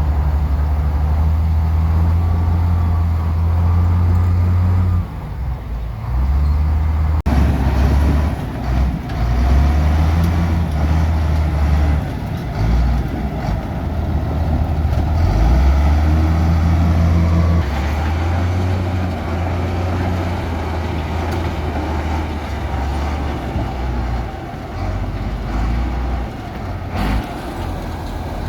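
Heavy diesel earthmoving machinery running and working under load, the deep engine note shifting up and down repeatedly, with an abrupt break about seven seconds in.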